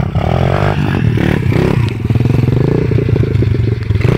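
Motorcycle engine running loudly, its pitch rising and falling a few times as it is revved.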